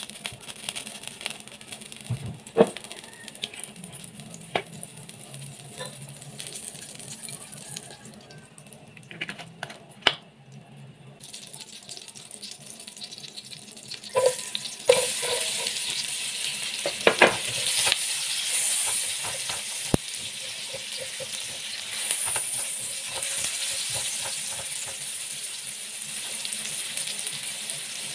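Butter melting and faintly sizzling in a stainless steel frying pan with a few light knocks. About halfway through, sliced onion is scraped in with a spoon, and the frying turns to a loud, steady sizzle with clicks and scrapes from the spoon.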